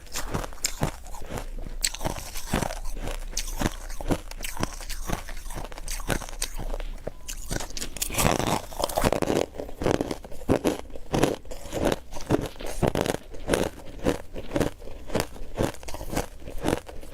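Close-miked biting and chewing of refrozen powdery ice, a steady run of soft, crisp crunches that grow denser and louder about halfway through.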